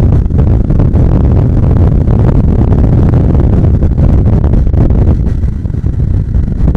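Bajaj Pulsar 150's single-cylinder engine running steadily while the motorcycle is ridden, as a loud low rumble.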